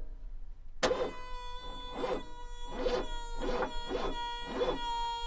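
Exeed car making a repeated knocking, about once a second, over a steady high whine when started: the unexplained start-up noise that the owner is asking about.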